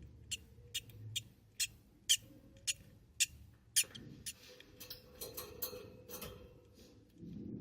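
Newly hatched budgie chick peeping: short, high squeaks about twice a second, coming faster in a cluster around the middle.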